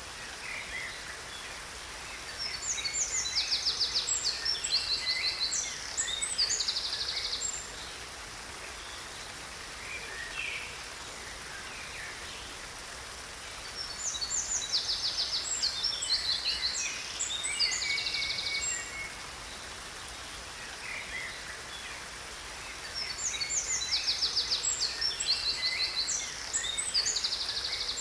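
Songbirds singing in three bouts of rapid trills and chirps about ten seconds apart, over a steady rush of a waterfall.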